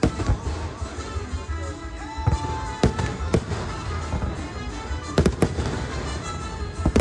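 Aerial fireworks shells bursting overhead in a display: a string of sharp bangs, with a quick pair about five seconds in, over a steady low rumble.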